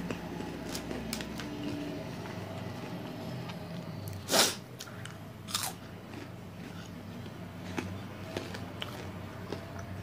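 Flamin' Hot Crunchy Cheetos being bitten and chewed close to the microphone: a string of small crunches, with a loud crunch about four seconds in and another a second later.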